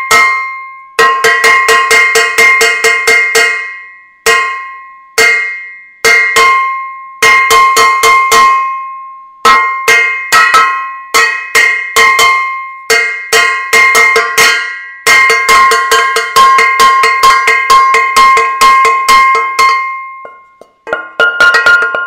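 A metal saucepan being banged repeatedly, each strike ringing, in irregular runs of quick strokes with short gaps where the ring dies away, the kind of pot-banging done at a street protest. About a second before the end the ring changes to a different pitch as another pot is struck.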